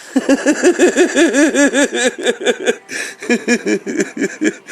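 A man laughing hard: a rapid, loud run of short rising-and-falling "ha" bursts, several a second, with brief breaks about two and three seconds in.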